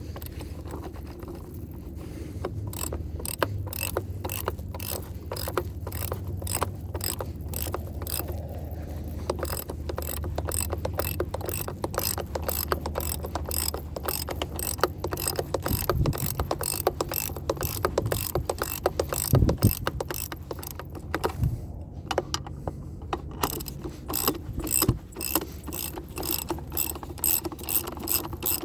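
Hand ratchet clicking steadily as it backs off the threaded rods of a coil spring compressor, letting a rear strut coil spring decompress; about two to three clicks a second, with a short pause about three quarters of the way through.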